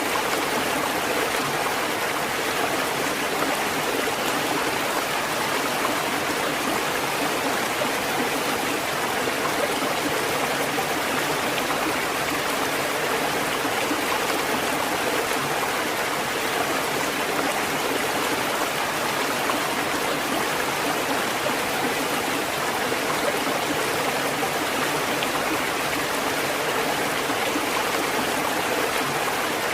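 Steady, even rush of water, an unbroken hiss with no rise and fall of separate waves.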